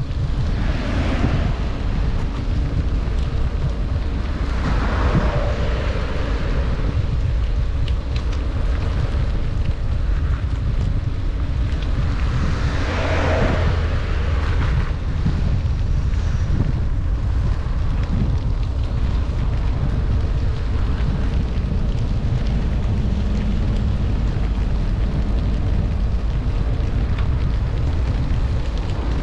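Wind rumbling steadily on the microphone of a bicycle riding downhill in heavy rain, over a hiss of rain and wet road. The hiss swells briefly near the start, about five seconds in and about thirteen seconds in.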